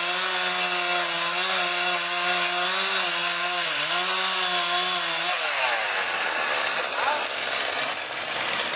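Chainsaw running at a steady high speed, dipping briefly about four seconds in, then its pitch falls away about five seconds in, leaving a rough hiss.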